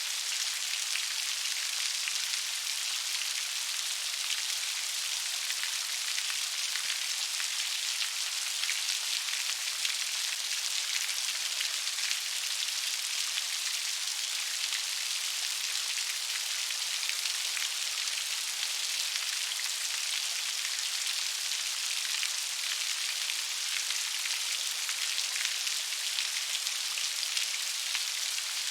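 Steady gentle rain: an even hiss of many small raindrops pattering on a surface, with no thunder or other sounds.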